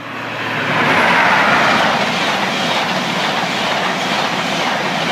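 High-speed diesel train led by a Class 43 power car passing close at speed. A loud rushing rumble of wheels on rail builds over the first second, then holds steady as the coaches go by.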